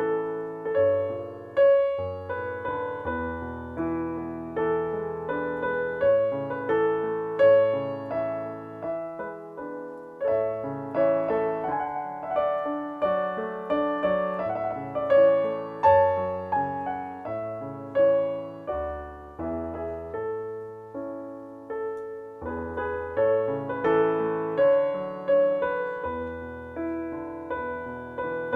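Piano playing a melody over bass notes and chords, the notes struck one after another and each fading away, at a moderate, even pace.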